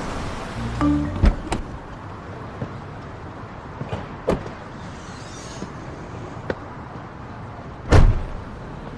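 A low steady background with a few sharp clicks and one heavy thump near the end.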